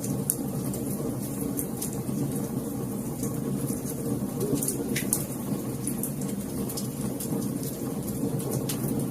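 Wood fire crackling in a fireplace: a steady low rush of flames under frequent small, sharp crackles and pops, one a little fuller about five seconds in.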